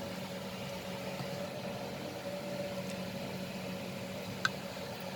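Steady low mechanical hum, like a motor running in the background, with a single sharp click about four and a half seconds in.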